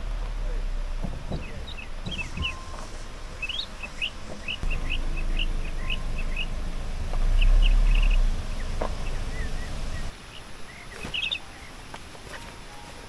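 Small birds chirping, with many short quick chirps repeated throughout. Under them is a low rumble that grows loudest about seven to eight seconds in, with a few scattered knocks.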